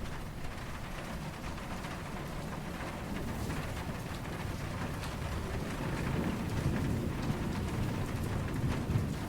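Steady rain falling, with low, distant thunder rumbling underneath. The rumble swells in the second half.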